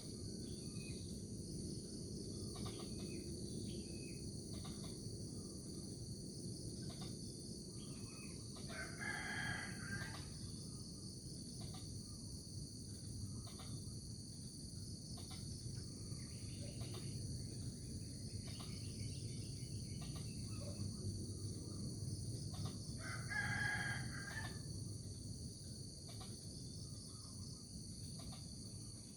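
A rooster crowing twice, about fourteen seconds apart, over a steady high chorus of crickets and a low background rumble.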